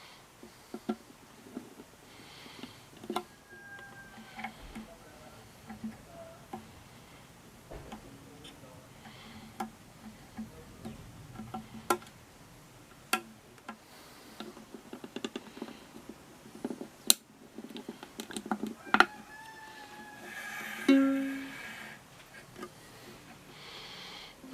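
Strings of a Kamaka soprano ukulele plucked one at a time amid scattered sharp clicks and taps of handling; a few short notes slide slightly in pitch, as when a new string is being brought up to tune. The loudest sound is a single ringing note near the end that fades away.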